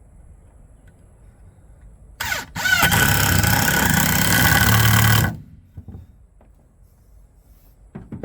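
Electric power saw triggered briefly, then run for about three seconds, its motor whining up to speed as it starts, before it cuts off suddenly and winds down.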